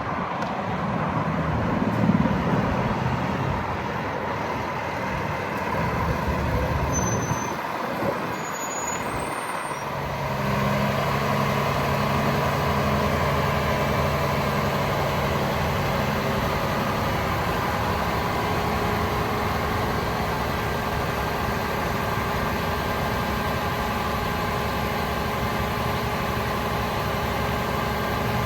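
Cummins L9 turbo diesel in a Freightliner M2 truck running at idle. After about ten seconds it settles into a steady, even hum.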